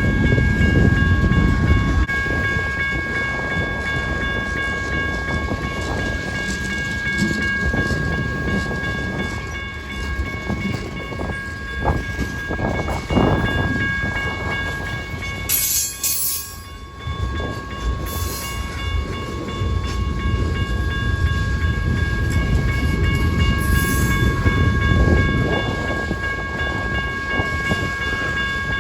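Long freight train's cars rolling past, a steady low rumble, with several steady high tones running through it. There are short hissing bursts about halfway and again near the end.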